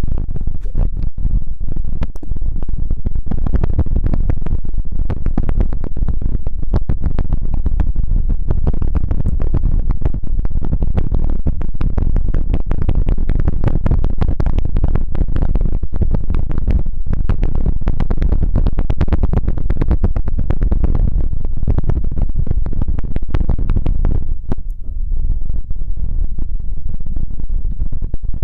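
Close-up rubbing and scratching directly on an ASMR microphone, a deep continuous rumble with dense crackles and clicks that eases briefly near the end.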